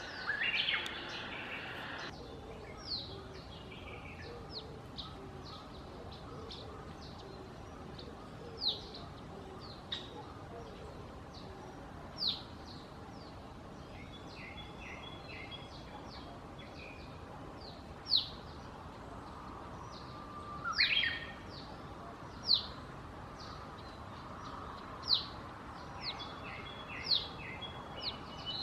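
Wild birds calling: short, sharp, high notes that fall in pitch, repeated every second or two. They are mixed with a couple of quick runs of lower chattering notes, over a steady background hiss.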